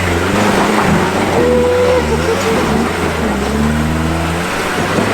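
Off-road truck engine revving up and down in pitch under load as it climbs a steep rocky hill, over a steady low engine hum.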